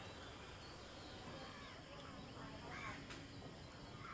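Faint outdoor background with a few distant bird calls.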